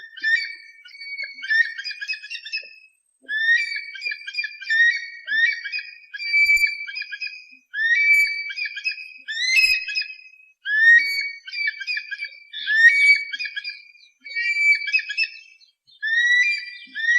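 Eagle calls: a whistled call phrase repeated about every one and a half to two seconds, each opening with a rising note and followed by a run of short, quick notes.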